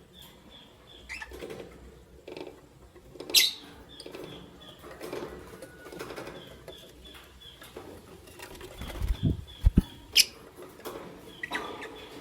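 Lovebirds fluttering their wings and shuffling about, with two short, sharp high chirps, one a few seconds in and one near the end, and a few low thumps just before the second chirp.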